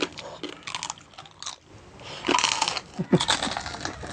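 Someone chewing and crunching food, mukbang-style eating sounds in irregular short bursts.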